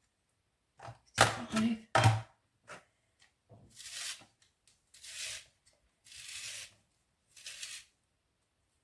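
Kitchen handling noises while food is portioned on scales: two sharp knocks with a low thud, about a second in and again a second later, then four separate rustling, tearing-like sounds, each under a second long.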